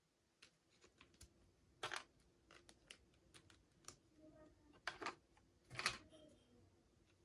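Faint, irregular clicks and taps of small plastic pieces and packaging being handled, with short rustles about two seconds in and again near five and six seconds.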